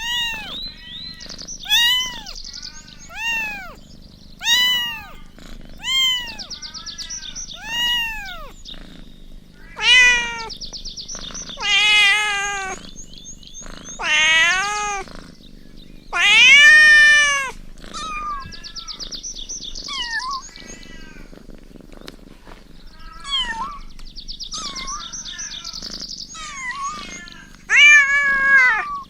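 Kittens meowing over and over: short, high, arching meows about one a second at first, then several longer, louder meows.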